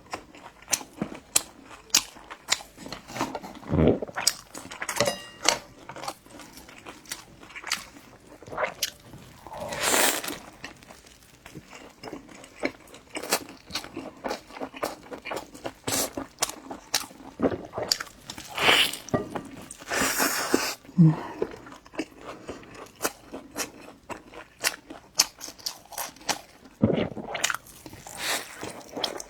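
A person chewing and biting food, with crunching and many small, quick mouth clicks, and a few longer, louder sounds in between; the food is fried oil cake with egg and steamed buns.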